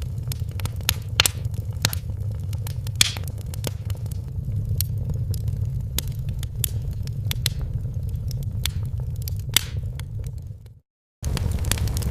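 Wood fire crackling, with sharp irregular pops and snaps over a steady low rumble. The sound cuts out completely for about half a second near the end, then resumes.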